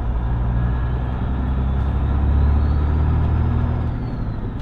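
Semi-truck tractor running bobtail down the road: a steady low engine drone with road noise, and a faint high whine that slowly rises, holds, then falls away near the end.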